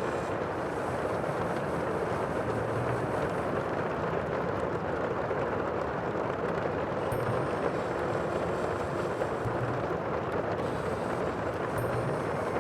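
Sea ambience: a steady, even rush of water noise with no distinct wave breaks standing out.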